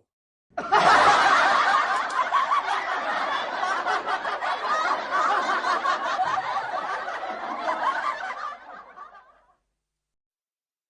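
Laughter that starts about half a second in and fades away near the end.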